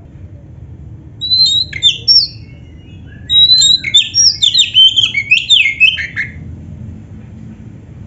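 Oriental magpie-robin (kacer) singing: a short phrase of sweeping whistled notes, then after a pause a rapid three-second run of varied, chattering whistles and slurs.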